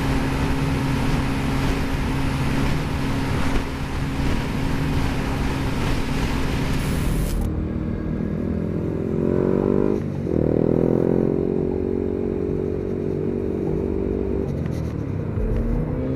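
Motorcycle riding with steady wind and road noise and a constant engine hum. About seven seconds in, this changes to a motorcycle engine accelerating: its pitch climbs and then drops sharply at a gear change, twice.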